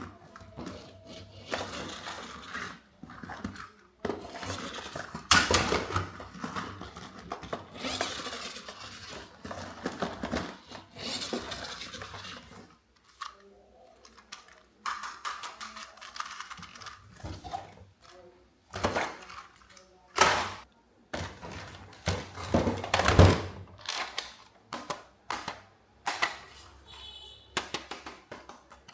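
Toys being handled: irregular clicks, knocks and rustling, with a short electronic beeping near the end.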